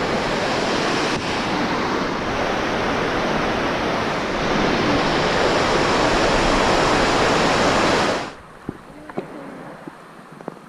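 Loud, steady rush of falling water from a waterfall close by. It cuts off abruptly about eight seconds in, leaving only faint, much quieter background sounds.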